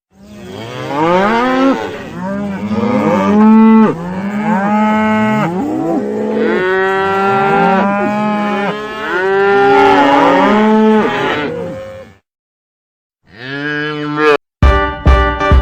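Cattle mooing: many long, overlapping moos for about twelve seconds. After a brief pause comes one more moo.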